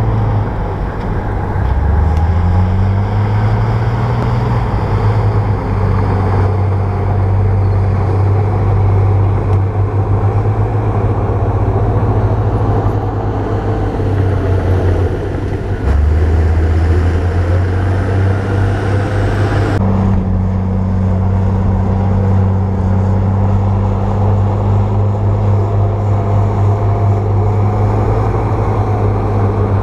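Bulldozer's diesel engine running under load as it works soil, with a low, steady note whose pitch steps up a couple of seconds in and again about sixteen seconds in. The sound changes abruptly about twenty seconds in.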